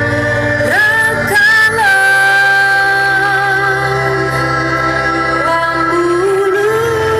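Loud music played through a large carnival sound system: a held, sliding vocal-style melody over a heavy, steady bass.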